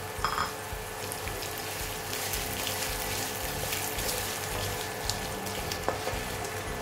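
Chopped onions with green and dried red chillies sizzling in hot oil in a wok as a wooden spatula stirs them, with a few light clicks of the spatula against the pan.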